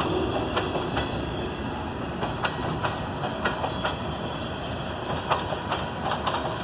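Loaded freight cars of a salt train rolling past, their steel wheels clicking over rail joints at uneven intervals over a steady rumble.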